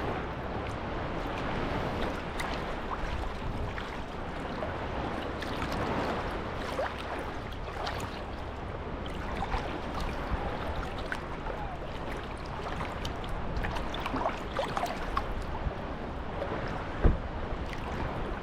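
Small sea waves washing and lapping at the shoreline in a steady wash, with many small splashes and gurgles. A single sharp thump comes about seventeen seconds in.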